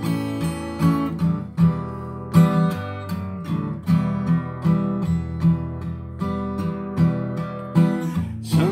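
Acoustic guitar strummed in a steady rhythm, chords ringing out with no singing over them.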